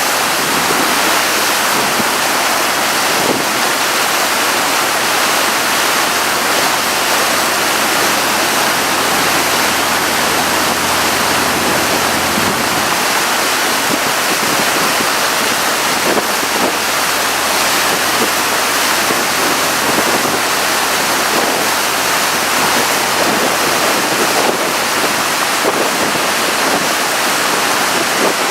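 Steady loud rush of wind and water from a moving tour boat, with a low engine hum underneath that fades about halfway through.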